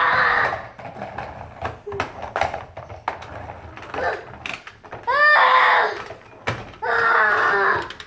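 A young child making pretend truck growls: drawn-out, high-pitched, strained vocal noises. One fades out just after the start, then two more come about five and seven seconds in, with light knocks and clatter in between.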